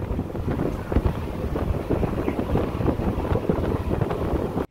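Wind buffeting the microphone: a loud, gusty rumble with irregular thumps.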